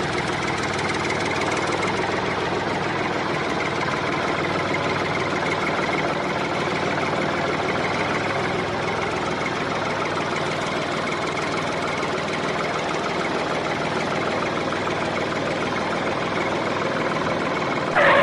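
A machine running steadily and evenly with an engine-like sound, most likely the homemade model tractor's small motor working. A brief, louder tone cuts in right at the end.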